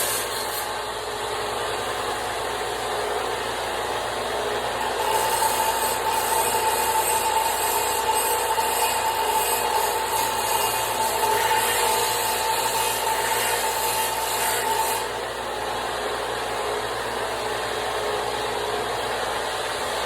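Power grinder shaping and sharpening the point of a forged steel center punch: a steady abrasive hiss over the running motor, growing louder with a steady whine for about ten seconds in the middle as the steel is pressed harder to the abrasive.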